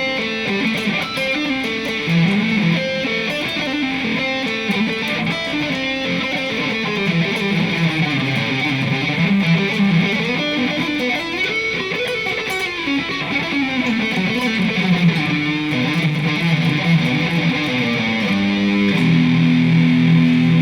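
Electric guitar played through its neck-position EMG 81 pickup, running fast single notes that climb and fall in pitch as speed practice, then settling on a held low note near the end.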